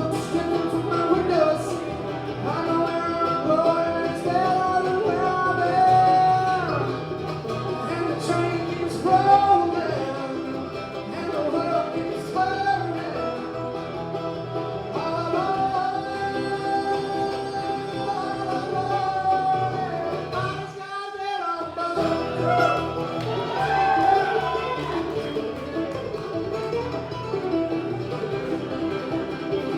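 Bluegrass band playing live, with acoustic guitar and banjo under held, sung or melody notes.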